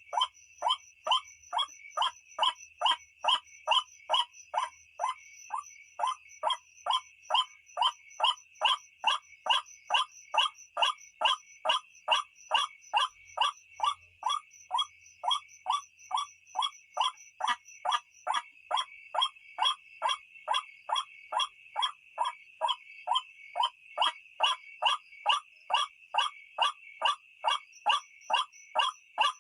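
White-breasted waterhen (ruak-ruak) call, an unbroken run of short, harsh notes repeated evenly about two and a half times a second, of the kind played as a night lure call.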